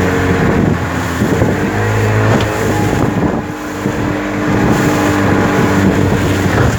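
Small boat's motor running steadily under way, its pitch shifting slightly a couple of times, with wind buffeting the microphone.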